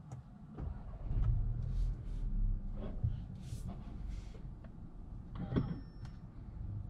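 Cupra Formentor's 1.5 TSI four-cylinder turbo petrol engine starting about a second in and settling into a low, steady idle, heard from inside the cabin. Small clicks come from the console, and a sharper click with a brief high tone sounds about five and a half seconds in.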